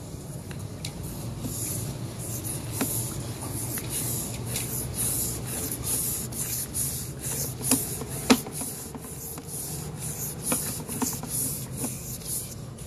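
Sewer inspection camera push cable being fed by hand into the line: a rhythmic rubbing hiss, about two or three strokes a second, with a few sharp clicks, over a steady low hum.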